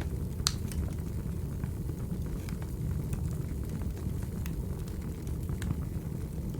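Recorded wood fire burning: a steady low rumble of flames with scattered crackles and pops of burning logs, one sharp pop about half a second in.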